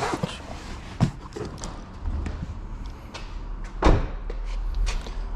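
Two sharp slams about three seconds apart, the second louder, with smaller knocks between them over a low steady hum.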